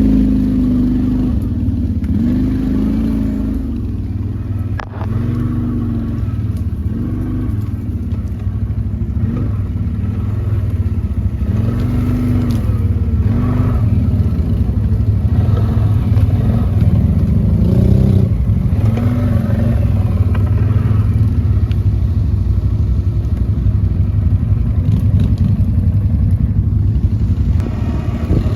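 ATV engine running under load, its pitch rising and falling over and over as the throttle is opened and eased.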